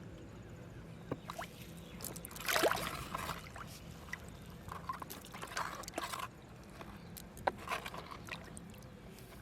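Water splashing and trickling in a few short irregular bouts, the loudest about two and a half seconds in.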